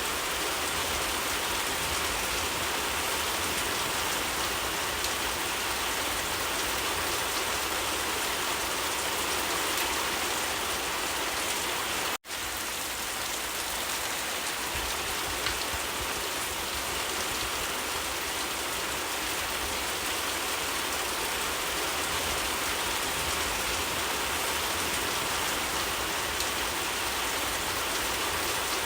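Steady, even rainfall, a dense hiss of raindrops on surfaces. It cuts out for an instant about twelve seconds in and resumes.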